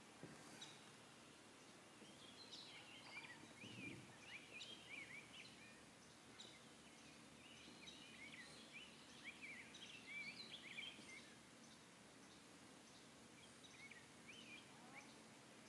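Faint songbird singing: a run of quick, twisting chirped and warbled notes in the middle stretch, over a steady outdoor hiss, with one soft low thump.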